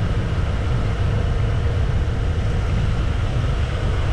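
Minoh Falls waterfall: the steady, loud rush of falling water, strongest in the deep low end, with no breaks.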